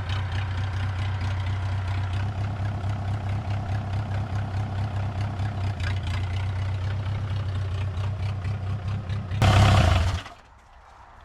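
Homemade mini loader's engine idling steadily, run to check the cooling system. About nine seconds in comes a short loud burst, then the engine stops and it goes quiet.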